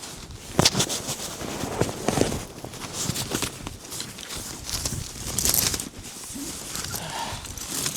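Footsteps crunching in snow: irregular steps, some heavier than others, over a faint steady hiss.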